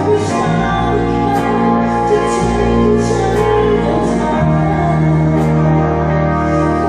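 A band playing a slow song with sustained keyboard or organ chords, a bass line that changes note about half a second in and again past the middle, and a cymbal struck on the beat.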